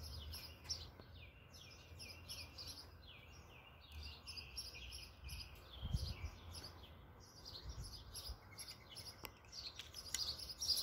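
Birds chirping continuously: a quick run of short, falling chirps, several a second. A faint low rumble lies underneath, with a soft thump about six seconds in.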